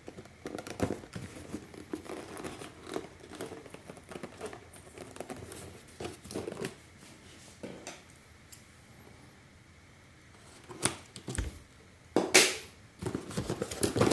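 Plastic and cardboard packaging being handled and crinkled while unboxing a battery charger, with scattered clicks and rustles, and a short loud rip about twelve seconds in as the packaging seal is torn.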